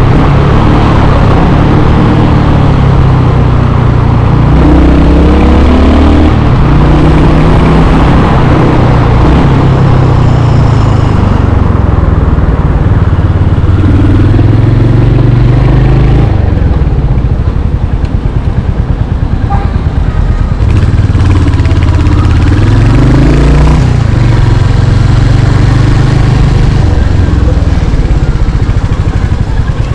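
Royal Enfield Hunter 350's single-cylinder 349 cc engine pulling through the gears while riding, its pitch climbing and then dropping at each shift several times. It eases off for a few seconds in the second half before pulling up again.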